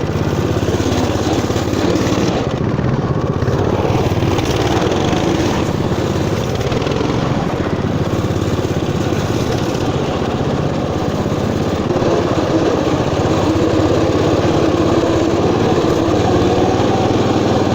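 Motoland RT200 mud bike's single-cylinder four-stroke engine running steadily as it is ridden, getting a little louder about twelve seconds in.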